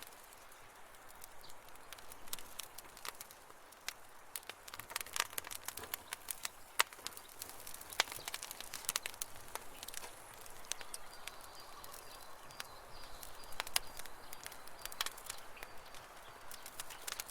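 Wood campfire burning: irregular sharp crackles and pops over a soft hiss.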